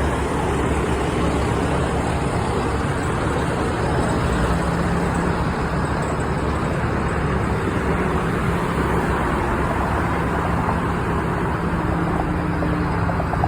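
Steady road traffic noise, an even rush of passing vehicles with a low steady hum beneath it.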